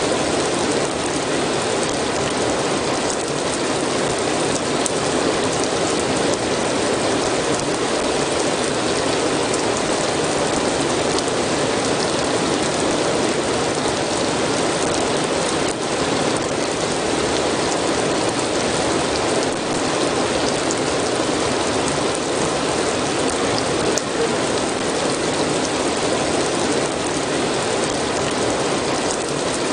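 Steady rain falling, an even hiss of drops with scattered light ticks.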